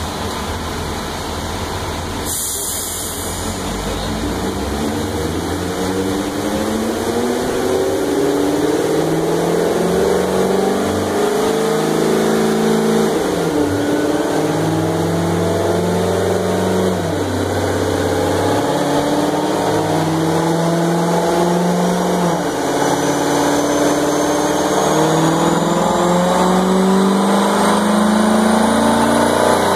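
Corvette Grand Sport's V8 running on a chassis dyno and pulling up through the gears, its pitch climbing, falling back and climbing again several times as it gets louder. A brief hiss about two seconds in, and a thin whine rising over the last ten seconds as road speed on the rollers builds.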